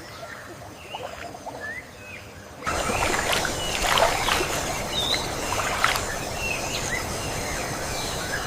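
Rainforest ambience with scattered short bird chirps and whistles. About two and a half seconds in, it abruptly gets louder: a dense hiss rises and the bird calls come more often.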